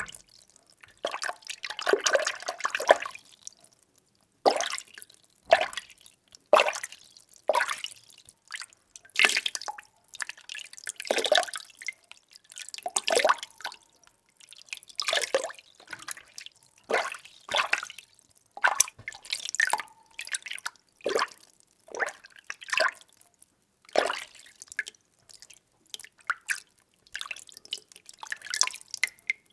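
Water being stirred: irregular sloshing and swishing strokes, roughly one a second, with short quiet gaps between them.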